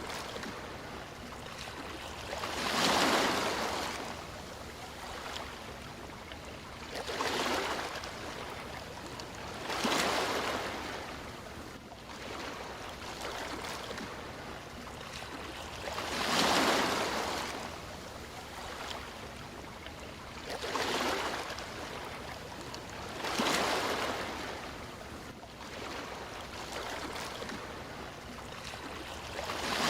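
Sea waves breaking and washing onto a shore, a surge every three to six seconds over a steady hiss of surf.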